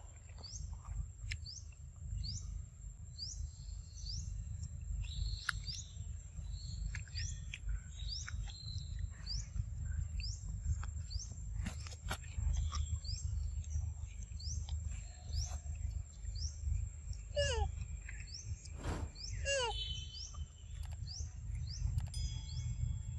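Birds calling: a short rising chirp repeated more than once a second, with two quick descending runs of notes in the last third, over a steady low rumble.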